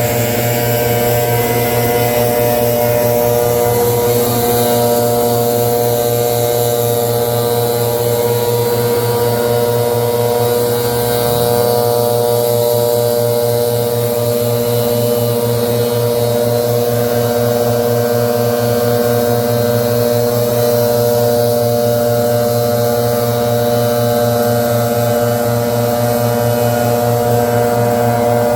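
Leaf blower running steadily at a constant speed, a loud, unchanging engine drone with a rushing hiss of air over it.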